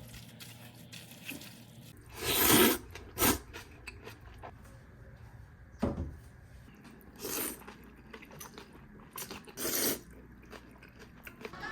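Kitchen and eating handling sounds: a few short scraping, rustling noises with light clicks between them, the loudest about two seconds in.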